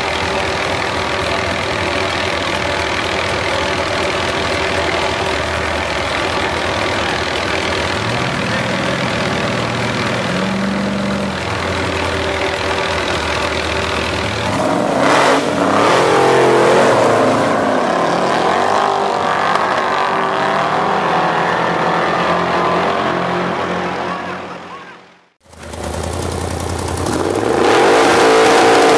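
Car engines idling and revving, running steadily at first, then revving up and down in surges from about halfway. The sound cuts out briefly near the end, then an engine runs loud again.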